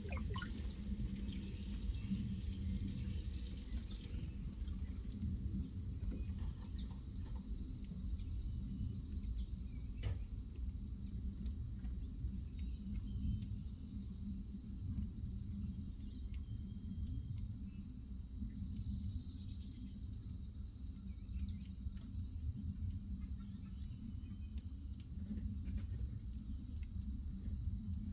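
Backyard ambience: a single sharp rising bird chirp about half a second in, then a steady high insect drone, twice swelling into a pulsing trill, over a low steady rumble.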